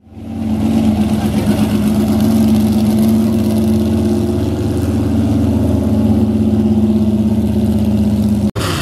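Mud-racing truck engine running loudly at a steady pitch, then cutting off suddenly near the end.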